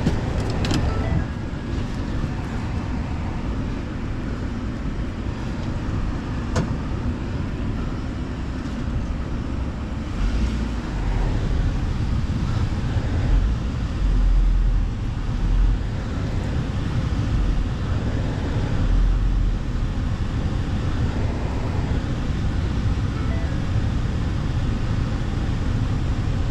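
Truck driving slowly while towing an engineless junk car on a strap: a steady engine and road rumble, with heavier low rumbling bumps between about ten and twenty seconds in.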